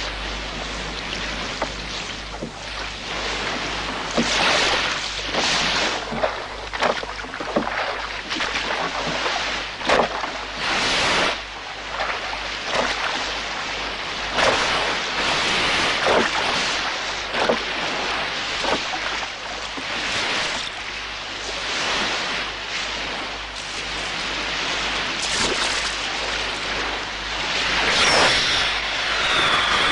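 Water splashing and sloshing in irregular surges, with wind buffeting the microphone; near the end a thin high whistle falls in pitch.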